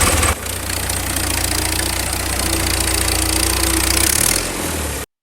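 A small engine running steadily. It drops in level about a third of a second in and cuts off just before the end.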